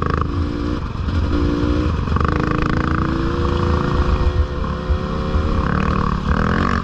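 Dirt bike engine running under load as it is ridden, the revs climbing and dropping back several times between shifts.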